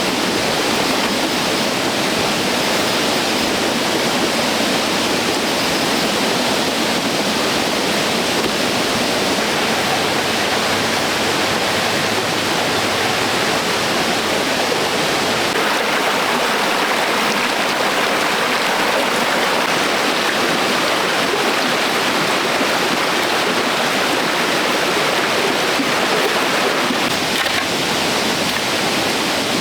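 Steady rushing of running water, an even noise with no breaks or distinct knocks.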